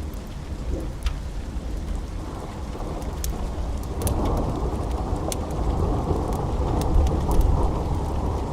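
Steady rain with a low rolling rumble of thunder that swells about halfway through. Sparse sharp crackles of a fireplace pop over it.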